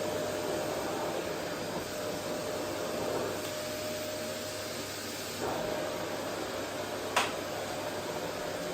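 Vacuum cleaner running steadily over a wooden floor, a constant rushing noise with a steady motor whine. A single sharp click about seven seconds in.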